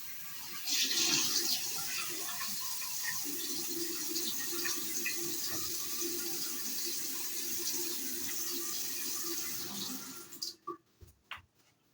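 Tap water running into a sink with splashing as someone washes up under it; the water shuts off near the end, followed by a few clicks.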